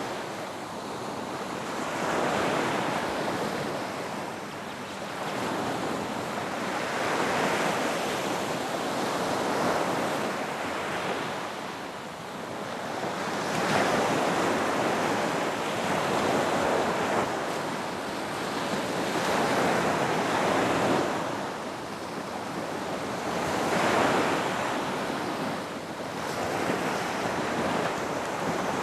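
Ocean surf breaking and washing up a beach: a steady rush of water that swells and eases every four to five seconds.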